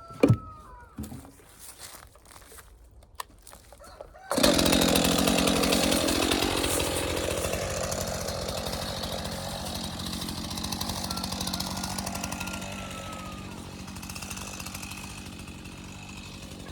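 Chainsaw starts up about four seconds in and then runs steadily, slowly getting quieter. Before it, a few light clicks and knocks.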